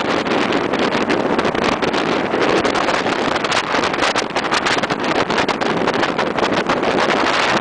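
A motorboat under way: a steady rush of wind buffeting the microphone, with the noise of the boat and water going by underneath.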